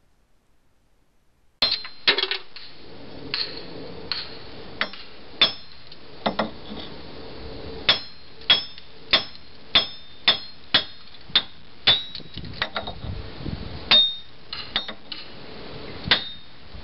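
A 3-pound hammer knocking wheel studs out of a Toyota MR2's wheel hub: a long run of sharp metal-on-metal blows with a short ring, about one to two a second, starting about a second and a half in.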